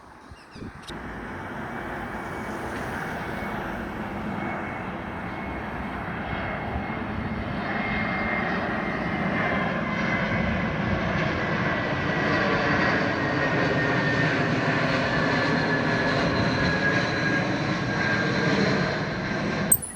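Airliner flying over on its approach to land, its engine noise growing steadily louder, with a whine that slowly falls in pitch. The sound begins abruptly about a second in and stops suddenly just before the end.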